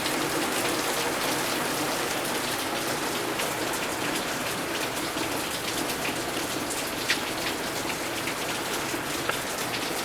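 Torrential rain pouring down steadily in a dense, even hiss, with a couple of sharp ticks about seven and nine seconds in.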